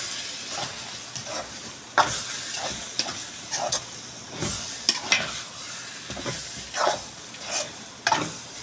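A cooking utensil stirring and scraping through thick chicken asado sauce in a pan, in irregular strokes about once a second, over a faint sizzle as the sauce cooks down.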